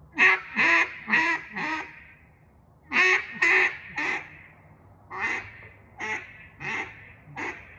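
Acrylic Singleton cutdown duck call blown in runs of hen-mallard quacks: four quick quacks, then three, then a run of five that get softer toward the end.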